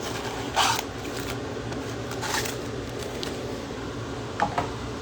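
Trading cards and their packaging being handled: two short rustles and then two light clicks, over a steady low hum.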